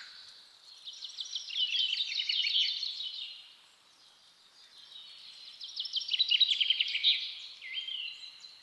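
A small songbird singing: two long phrases of rapid, high-pitched trilling chirps, a few seconds apart, followed by a short single note near the end.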